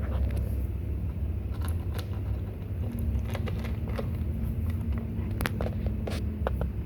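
Kittens chewing and crunching food in small irregular clicks, over a steady low rumble like a running engine or traffic, with a faint steady hum in the middle.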